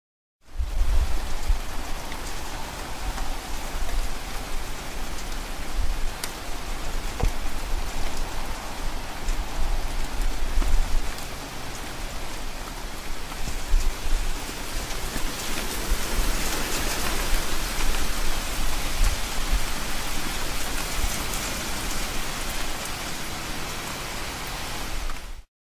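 Steady heavy rain, heard as an even, dense hiss, with an irregular low rumble underneath.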